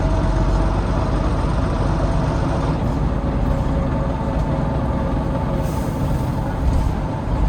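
Volvo B9TL double-decker bus heard from inside while on the move: its Volvo D9B diesel engine runs under a steady rumble of road noise. A faint whine fades out in the first second or so, and a short hiss comes near the end.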